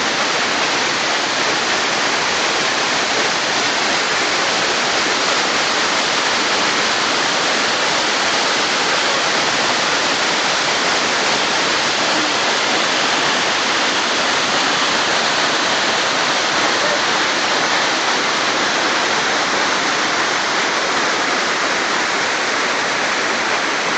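Tiered waterfall pouring: a loud, steady, unbroken rush of falling water.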